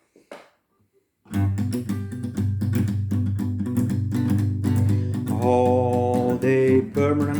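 Acoustic guitar strumming chords, starting about a second in after a brief near-silent moment. A melodic line with sliding pitch joins over the chords about five seconds in.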